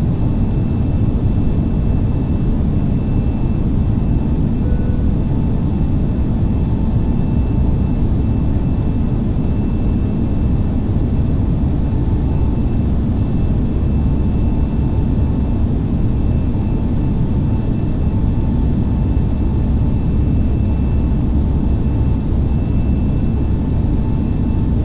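Airbus A320neo cabin noise during the takeoff: a steady, loud low rumble of the jet engines and airflow, with faint steady whining tones above it.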